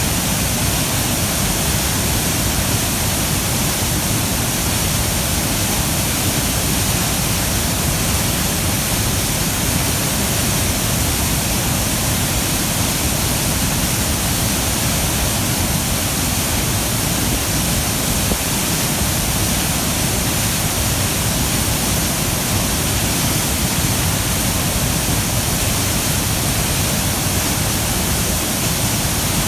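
Waterfall running at high flow after rain: a loud, steady rush of falling water that never lets up.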